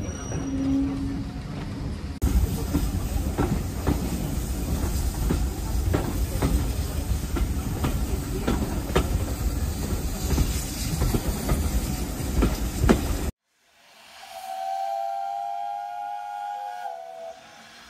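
A train carriage running along the track, heard from beside an open window: a steady rumble and wind noise with frequent sharp knocks from the wheels and track. It cuts off abruptly and a steam whistle blows for about three seconds, dipping slightly in pitch at the end, followed by a short second blast.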